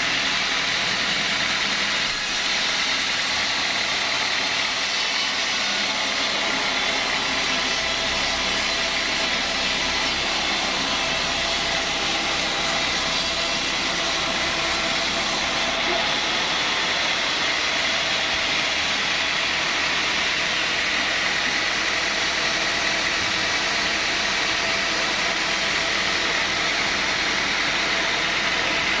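Sawmill saw running steadily through teak wood, a continuous dense machine noise with a high whine. The topmost hiss drops away abruptly about halfway through.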